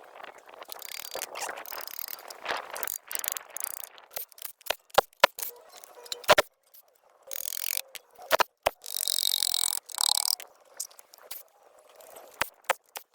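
A series of sharp knocks and clicks with short bursts of scraping noise, broken by sudden gaps.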